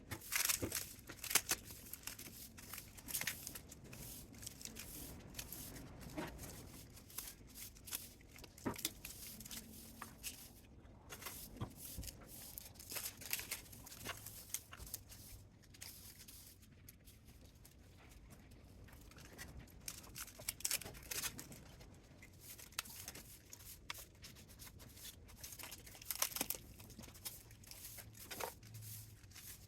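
Irregular clicks, taps and scraping noises of hand work on metal and plastic parts while a spot welder is stripped for scrap, with a few sharper knocks scattered through.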